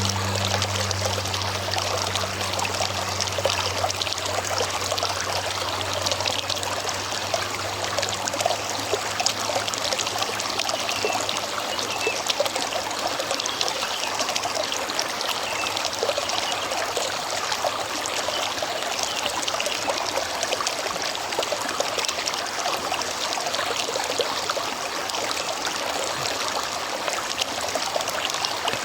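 A shallow river running steadily, a continuous trickling, splashing flow of water over rocks.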